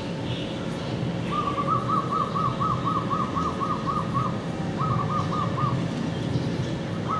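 A bird calling in quick runs of short, clear whistled notes, about four a second: a long run of about a dozen notes, a short run of four, then another beginning near the end. Under it is a steady low background rumble.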